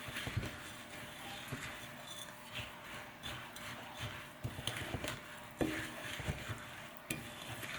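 A spoon stirring thick oat and peanut-butter cookie mixture in a bowl, making soft irregular knocks and scrapes against the bowl.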